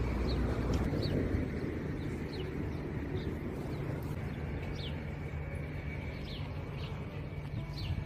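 Small birds chirping outdoors: short, high, falling chirps, about one or two a second, over a steady low rumble.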